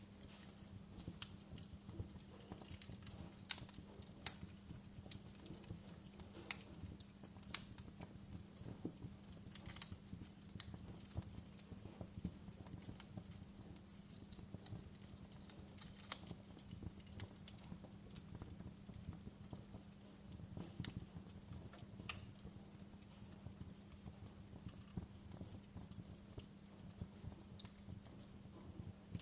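Wood fire crackling: irregular sharp pops and snaps, a handful of them louder, over a steady low rumble and a faint low hum.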